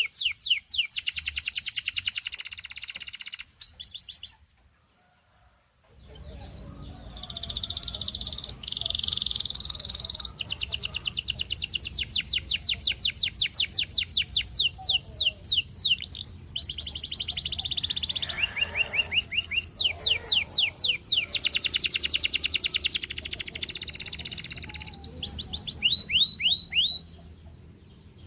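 Canary singing: long fast trills of repeated, quickly sweeping notes, one rolling phrase after another. The song breaks off for about a second and a half a few seconds in, then resumes over a faint low hum.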